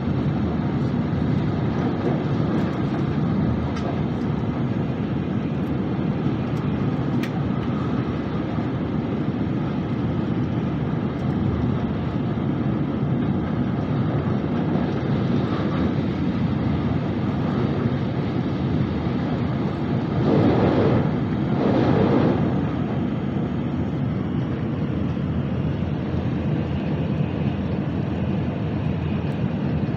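Cabin noise of a Nozomi Shinkansen bullet train at speed: a steady rumble from the running train, heard from inside the carriage. About two-thirds of the way through come two brief louder whooshes, a second or so apart.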